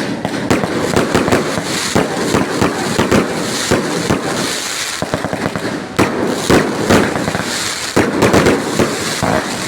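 A fireworks display going off, a dense run of many bangs and crackles overlapping without pause, growing louder about six seconds in.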